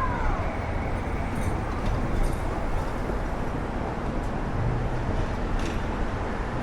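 City street ambience: steady traffic rumble and hum, with a short rising-and-falling squeal right at the start.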